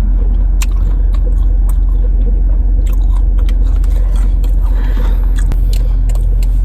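Steady low rumble of a car heard from inside the cabin, with scattered small clicks and crunches over it.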